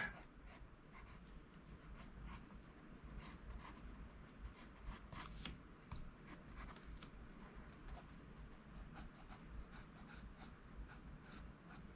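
Faint scratching of an HB graphite pencil on paper, many short, quick sketching strokes.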